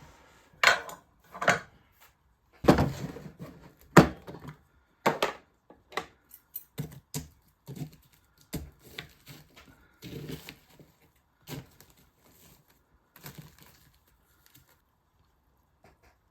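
Pieces of firewood knocking and clattering as they are handled: irregular wooden knocks and thuds, the heaviest in the first five seconds, then smaller, sparser knocks that die away near the end.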